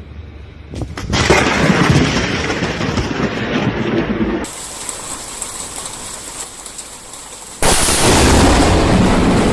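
Thunder from close lightning strikes: a sudden crack about a second in that rumbles on for a few seconds, then another sudden, loud thunderclap near the end.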